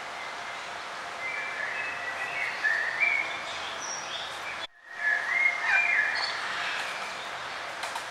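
Songbirds singing: short bursts of chirping and warbling phrases over a steady outdoor hiss. The whole sound cuts out for an instant about halfway through, then the song resumes.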